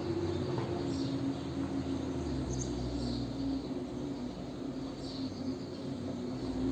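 Outdoor ambience: a steady low hum like distant motor traffic, with short high bird chirps every second or two.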